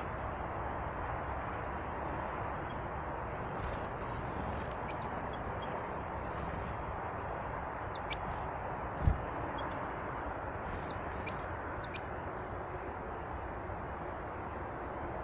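Small birds chirping faintly over a steady rushing noise, with one low thump about nine seconds in.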